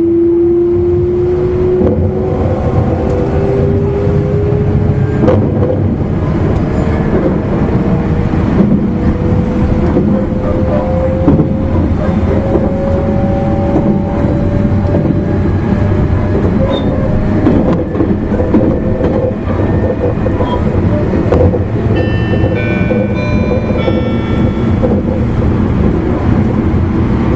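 Running sound inside an E259 series electric motor car (MoHa E259): the traction motor whine rises slowly and steadily in pitch as the train gathers speed, over a constant rumble of wheels on rail. A few brief high tones sound near the end.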